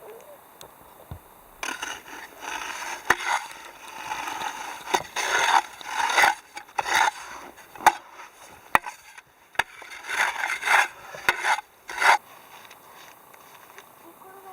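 Irregular scraping and rubbing strokes with several sharp knocks, starting about a second and a half in and stopping about two seconds before the end.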